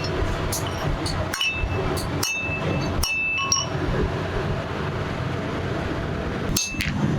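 Sharp metallic clinks, about six, each with a brief high ring, from a steel cleaver blade being handled and tapped, over a steady background noise. Most fall in the first half, with one more near the end.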